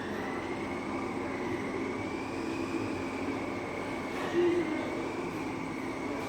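Radio-controlled touring cars racing, their motors giving a whine that rises and falls as they speed up and slow down around the track, over a steady noisy background.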